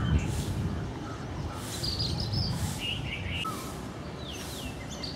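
Birds chirping and calling in the trees, with quick falling whistled calls about four seconds in. A soft high hiss swells and fades about once a second, and there is a low rumble at the start.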